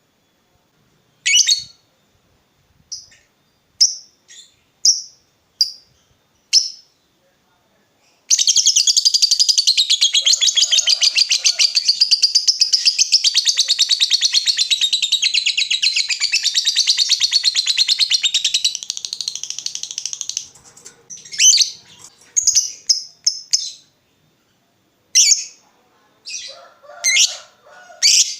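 Lovebird calling: a few sharp, high chirps, then about eight seconds in a long unbroken rapid chattering trill, the 'ngekek', lasting about twelve seconds, followed by more scattered chirps.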